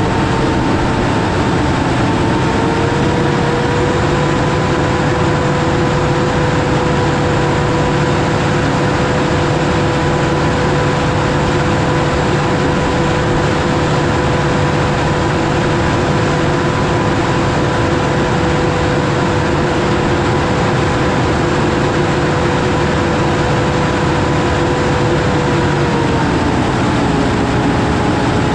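Heavy farm machinery running steadily under load, with a steady whine that rises a little about two to three seconds in and falls back near the end.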